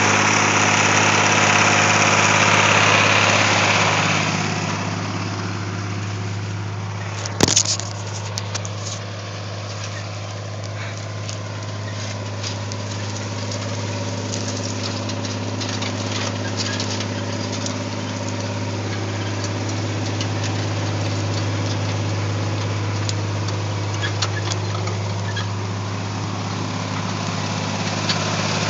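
John Deere 4020 tractor engine running steadily with a low hum. It is louder and harsher for the first four seconds, then settles lower. A single sharp knock sounds about seven and a half seconds in.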